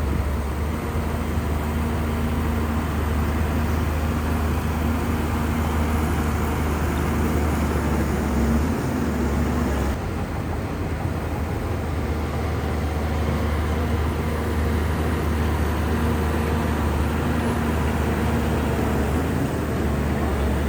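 Large Shantui crawler bulldozer's diesel engine running steadily with a deep, even drone, the low hum dipping briefly about nine seconds in.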